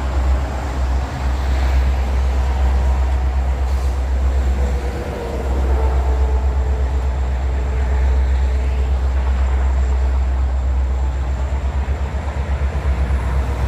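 Train rolling past, a deep steady rumble with a faint held tone over it.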